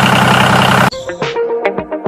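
A small motor-driven model machine running loudly and evenly, cut off suddenly about a second in; electronic music with plucked notes and a clicking beat follows.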